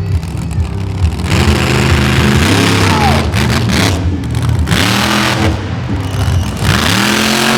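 Monster truck engine revving hard, its pitch climbing and dropping back several times over a loud roar.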